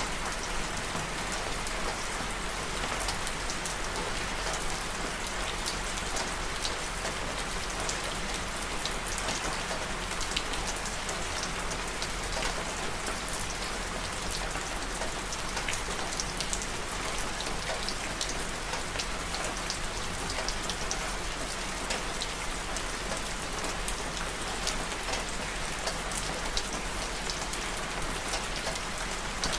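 Steady rain falling, with many fine drop patters over an even hiss.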